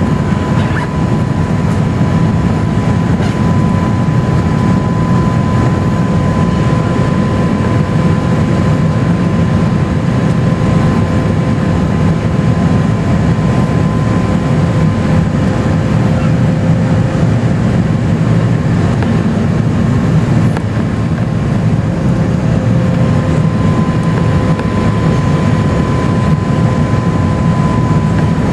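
Steady cabin noise inside an Airbus A350-900 with Rolls-Royce Trent XWB engines: a low rumble of engines and airflow, with a thin steady whine on top.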